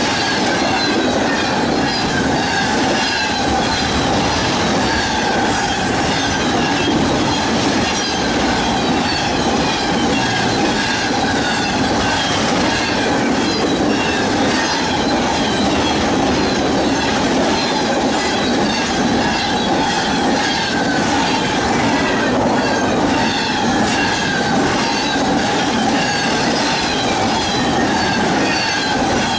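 Double-stack intermodal container train rolling past close by: a steady rumble of steel wheels on rail with a thin, high squeal held over it.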